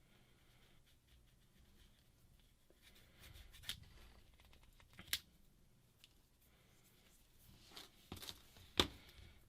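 Faint rubbing and scraping while old adhesive is cleaned off a phone's frame, with several sharp clicks of the phone and tools being handled, the loudest near the end.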